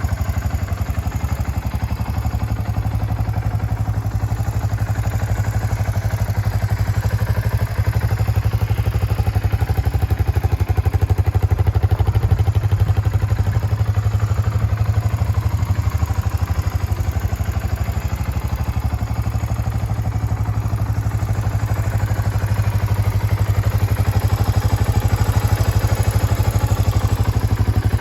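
Suzuki Goose 350's air-cooled single-cylinder four-stroke engine idling steadily, with an even, regular beat.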